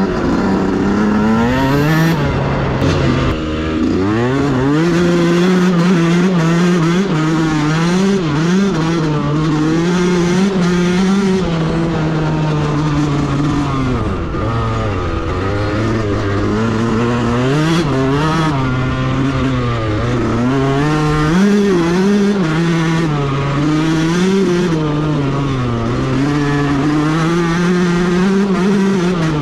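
Yamaha YZ125 two-stroke single-cylinder engine being ridden hard off-road, its pitch rising and falling over and over as the throttle is opened and closed.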